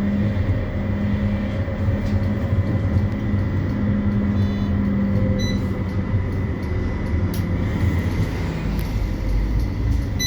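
A CAF Urbos 3 tram running, heard from inside the passenger saloon: a steady electric traction hum with a few held tones and a thin high whine over wheel and track rumble.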